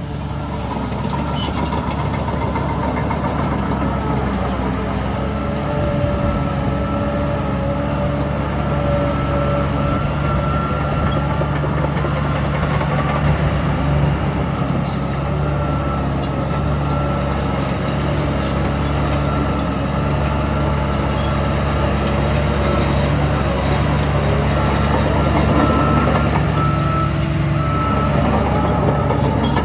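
Heavy diesel earthmoving machinery running steadily, with thin high whines over the engine.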